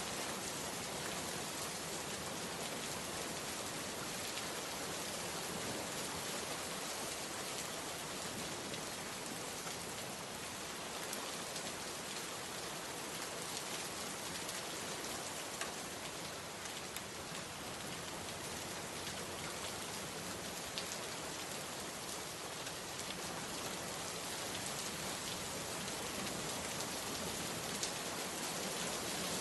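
Steady rain falling, heard from indoors through a window, with an even hiss and occasional single drips.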